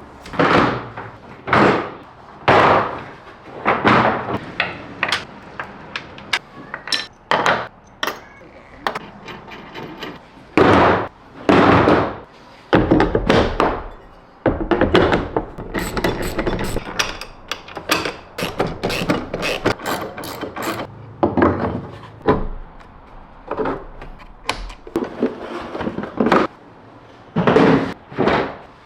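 A run of separate thunks, knocks and clatters a second or so apart, busiest about halfway through, from the parts of a truck-bed drawer system being handled and fitted.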